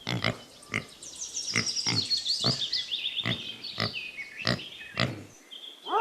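A pig grunting over and over, short grunts about twice a second that stop about five seconds in. A run of high, falling chirps sounds above the grunts through most of it.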